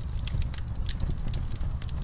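Wood fire in a fireplace crackling: several sharp pops and snaps a second over a steady low rumble of the flames.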